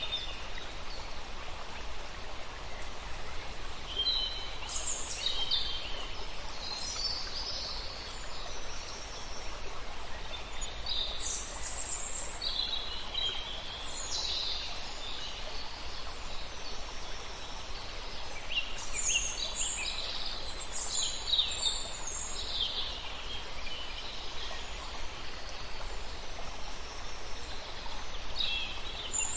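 Birds calling and singing in short, high chirps and phrases that come in spells, over a steady background hiss.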